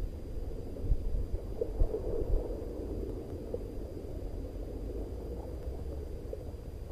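Low, steady rumble of wind buffeting the microphone while cycling.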